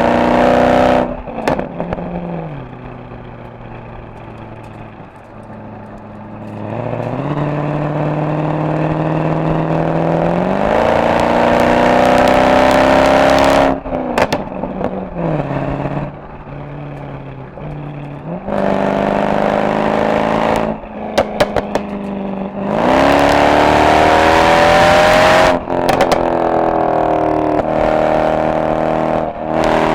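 Mercedes SL63 AMG V8 exhaust under hard driving: the engine note climbs steadily as the car accelerates, drops suddenly at each gear change or lift-off with short sharp crackles, then settles into quieter, lower running before climbing again. This happens about twice.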